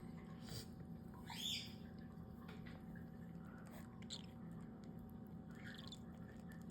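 Baby cockatiel giving a few short, faint chirps while being hand-fed. The loudest comes about a second and a half in, with weaker ones around four and six seconds.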